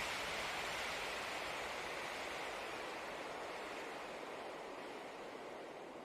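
Steady rushing noise with no tone in it, fading out slowly.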